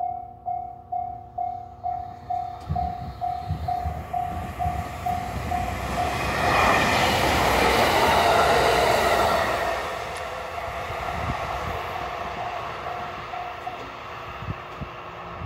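A JR West yellow-and-blue railcar passes close by, loudest from about 6 to 10 seconds in and then fading as it draws away. Throughout, a level-crossing alarm dings about twice a second and stops near the end.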